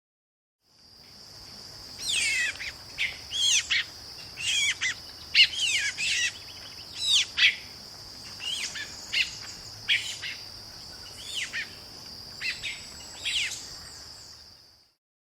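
A bird repeatedly giving sharp calls, each sweeping quickly down in pitch, about fifteen in all at irregular intervals, over a steady high-pitched tone.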